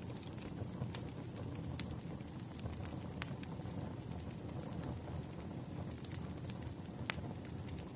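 Burning firewood crackling: a steady low rumble of the fire with scattered sharp pops, a few of them louder.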